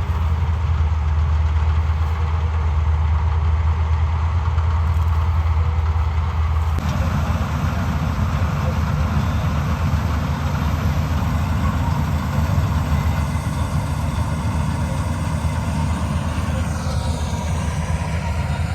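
Tractor engine running steadily. About seven seconds in the sound turns rougher and fuller.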